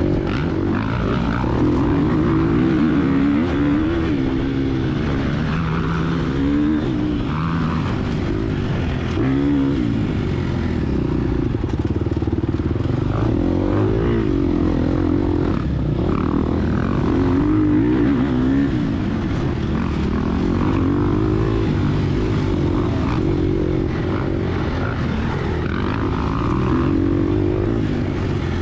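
Gas Gas EX250F four-stroke single-cylinder dirtbike engine under hard riding, its pitch rising and falling over and over as the throttle is opened and rolled off through the course.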